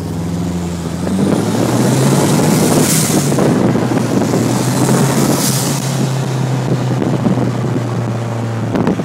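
Cars running at highway speed, with heavy wind and road rush. An engine note gets louder and steps up in pitch about a second in, then holds steady.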